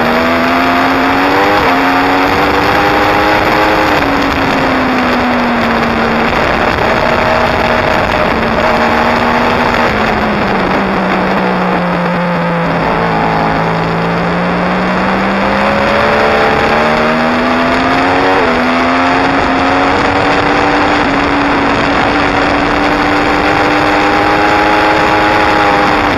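2016 Yamaha R1's crossplane inline-four engine at speed, under heavy wind rush. The engine note climbs, drops suddenly at gear changes about a second and a half in and again about two-thirds of the way through, and sinks lowest in the middle before climbing again.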